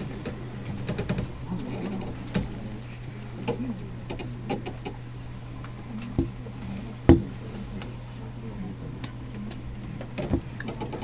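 Steady low hum inside a stopped electric train car, with scattered small clicks and knocks and one sharper knock about seven seconds in.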